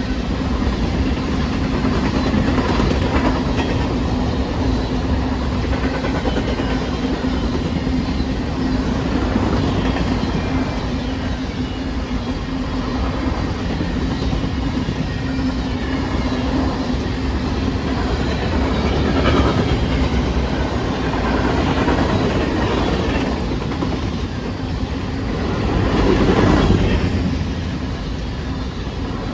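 A train rolling past, its wheels clicking over the rail joints in a steady clickety-clack over a continuous rumble with a steady hum, swelling briefly near the end.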